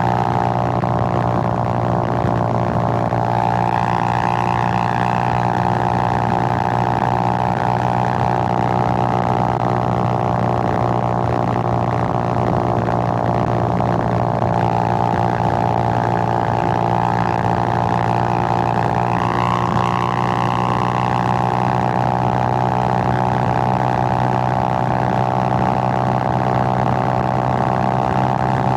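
Suzuki GN125's single-cylinder four-stroke engine running steadily, its note rising slightly about three seconds in and again near twenty seconds.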